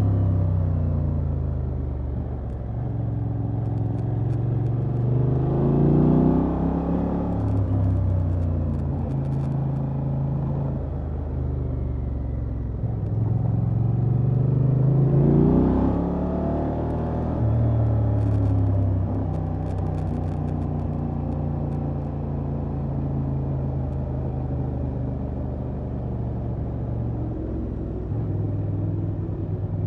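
Honda XL750 Transalp's parallel-twin engine running through its stock exhaust, revving up twice with a rising pitch that drops back at each gear change, and otherwise running steadily at cruising revs.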